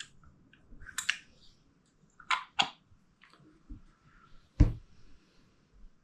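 Small clicks and clinks of the 2003 KTM 250SX's carburettor parts being handled and fitted during reassembly, with one louder knock about four and a half seconds in.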